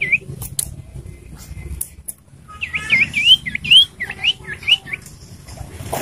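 Common iora calling: a single chirp at the start, then a quick run of about ten short whistled notes, mostly rising, packed into about two and a half seconds from midway through. A few sharp clicks sound in the first second.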